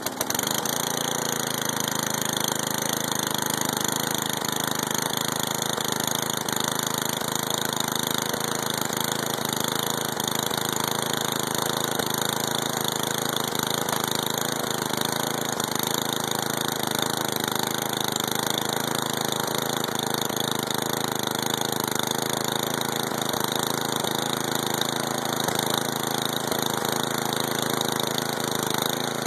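8 HP Tecumseh single-cylinder engine of a snow thrower running steadily right after a cold start, settling into an even idle.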